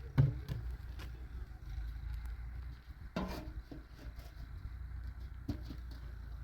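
Tractor engine idling steadily with a low hum, with a few light knocks over it.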